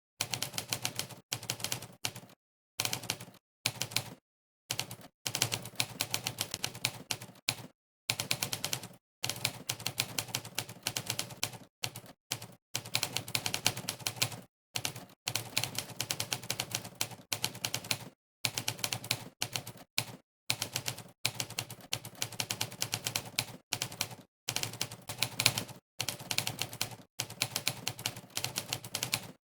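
Monkeytype's simulated typewriter keystroke sound effect: a sampled typewriter key clack played for each keypress, coming in fast runs of clacks broken by short silent pauses in the typing.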